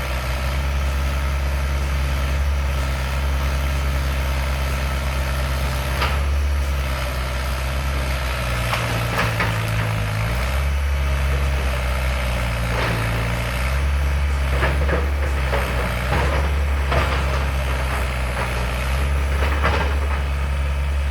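CX-160 tracked excavator's diesel engine running steadily, its pitch dropping and rising under load for a few seconds midway, with several sharp metal clanks from the machine's work.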